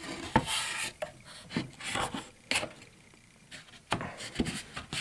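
Wooden beehive parts being handled: short rubbing scrapes on wood and several sharp knocks, spread irregularly, with a quieter stretch in the middle.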